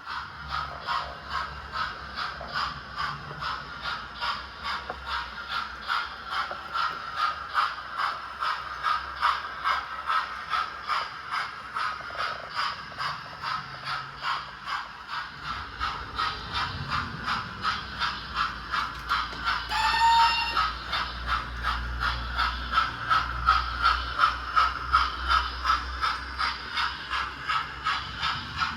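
Model train running on the track, its wheels clicking over the rail joints about twice a second, with a brief high squeal about two-thirds of the way through.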